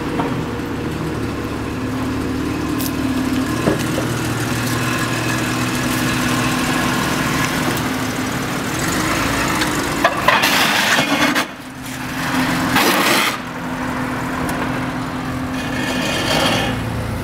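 Engine of a lowered 1980–86 Jaguar XJ saloon running steadily as the car pulls slowly past, with two brief louder rushes of noise about ten and thirteen seconds in.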